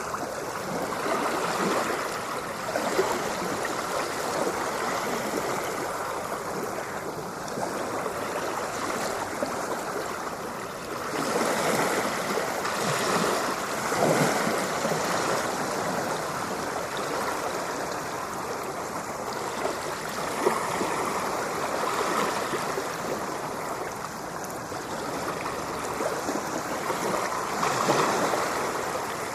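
Ocean water washing and splashing in a continuous rush that swells louder about eleven seconds in and again near the end.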